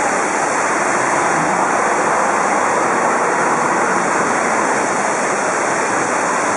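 Heavy rain pouring steadily onto the glass roof of a tram shelter and the wet pavement, with water streaming off the canopy edge.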